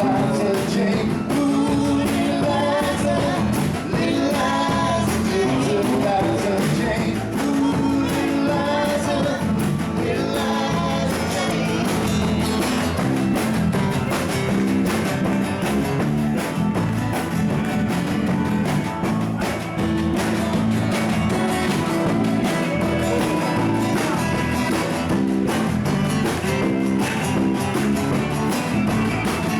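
Live band jamming: electric guitar, bass and drums with a singer, in a rock and roll style.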